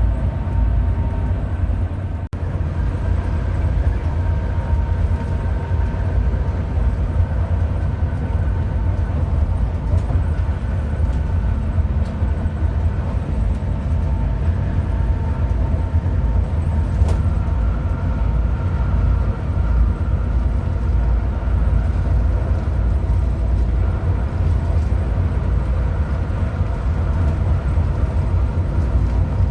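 Hino RM 280 bus on the move: a steady low rumble of the diesel engine and the road, with a faint hum above it and a brief dip about two seconds in.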